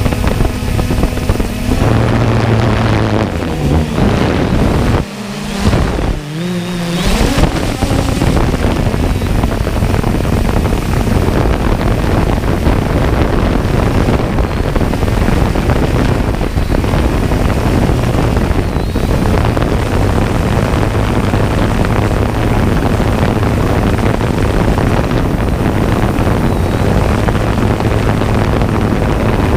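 Jet ski running at speed: a steady engine drone buried under heavy wind buffeting on the microphone and rushing water. About five seconds in the sound briefly drops and turns muffled for a couple of seconds, then the steady rush resumes.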